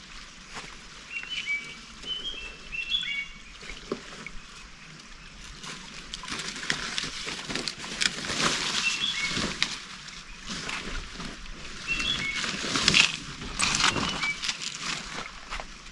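Wild birds give short, high chirping notes in little clusters, over a background of irregular rustling and clicking.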